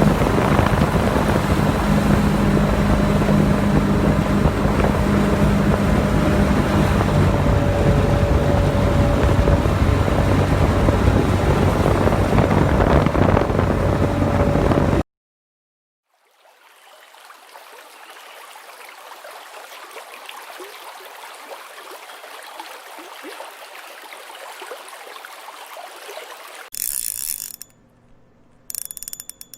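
Loud, steady rushing noise with a low hum, which stops abruptly about halfway through. A quieter hiss follows, and near the end come bursts of rapid clicking from a fishing reel's ratchet as line is pulled off.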